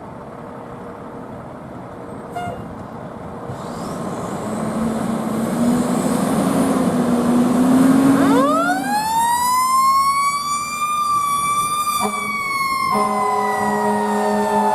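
Fire engine approaching: its engine grows louder, then a siren winds up sharply about halfway through and slowly falls away, the rise-and-coast of a mechanical siren. A steady horn blast joins near the end.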